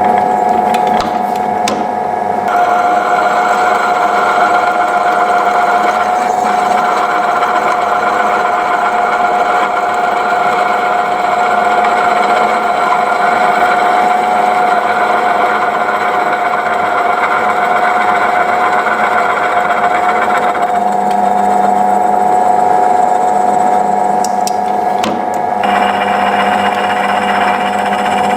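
A motor-driven workshop machine running steadily with a constant whine, its sound changing character about two seconds in and again around twenty-one and twenty-six seconds in, as if the load on it changes.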